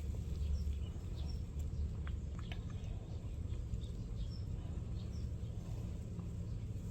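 A cat crunching dry kibble: scattered small crunches and clicks, over a steady low hum, with faint bird chirps in the background.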